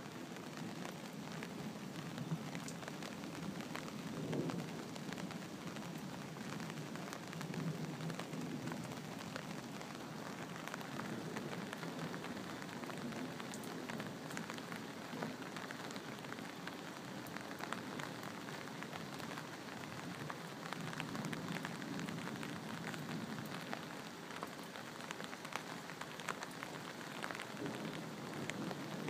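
Steady rain falling in a thunderstorm, a dense patter of drops hitting surfaces.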